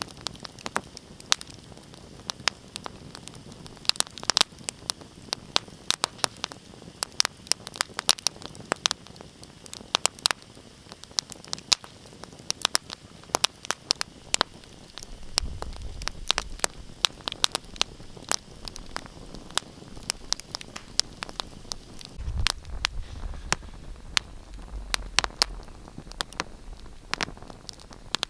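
Wood fire crackling in a fireplace: a steady hiss with many sharp pops and snaps, several a second. A low rumble swells and fades a couple of times in the second half.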